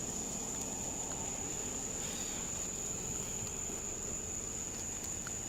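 Insects trilling, one steady high-pitched note, over a low rumble.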